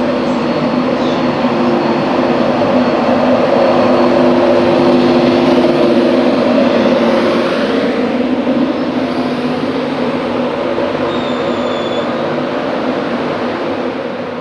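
Train running through the station: a loud, steady rumble with a held hum that swells to its loudest about five seconds in and then slowly eases off.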